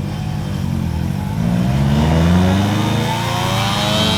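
Mazda RX rotary engine accelerating hard through a gear, its pitch climbing steadily, then dropping sharply at the end as it shifts up; pushed hard enough that a passenger jokes it is about to blow the rotor.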